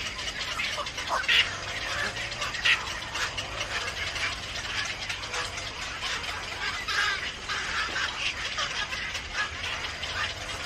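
Small birds chirping and chattering in a dense stream of short, sharp calls, with two louder chirps about one and a half and two and a half seconds in.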